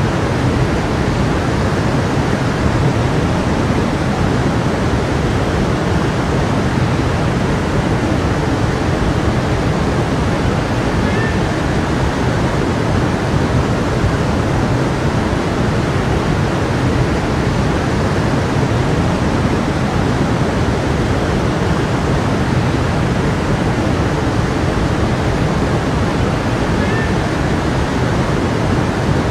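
Stream water flowing and burbling steadily.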